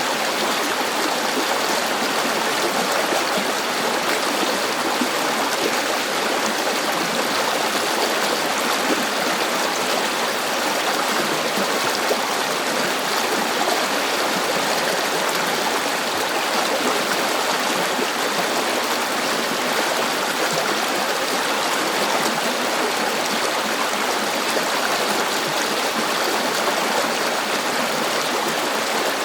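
River water flowing over rocks, a steady, even rushing with fine babbling detail.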